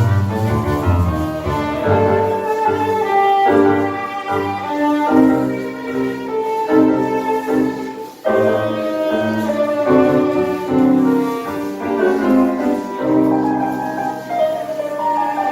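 Live tango music played by an ensemble, with a brief break about eight seconds in before the playing resumes sharply.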